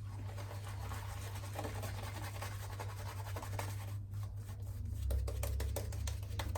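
Continuous scratchy rubbing of wet shaving on the face, with Palmolive shaving cream and a safety razor.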